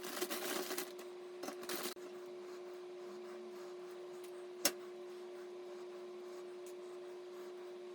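Rubbing and light knocks for about two seconds, then a steady hum with one sharp click near the middle.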